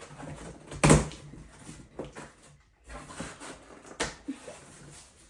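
A cardboard box being opened with a key: the packing tape slit and the cardboard scraped and rustled, with a sharp loud knock or rip about a second in and another near four seconds in.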